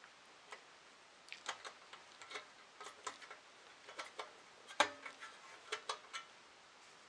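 Irregular small metallic clicks and clinks of screws and a screwdriver being handled while screws are fastened into a 3D printer kit's bottom plate, a few with a short ring; the loudest comes a little before the five-second mark.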